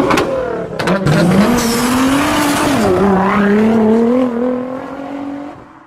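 A car engine revving hard, its note climbing over the first couple of seconds, dipping briefly, then holding high before fading out near the end. A few sharp clicks come in the first second.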